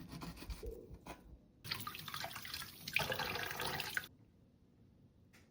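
Kitchen tap running into a sink for about two and a half seconds, then turned off suddenly, after light rustling and handling sounds.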